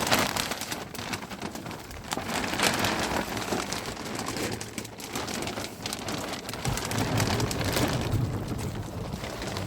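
Heavy rain pouring down, a steady wash full of sharp drop hits, with a low rumble building in the last few seconds.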